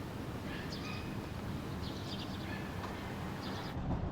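Small birds chirping in short high bursts, a few clusters a second, over a steady low background noise.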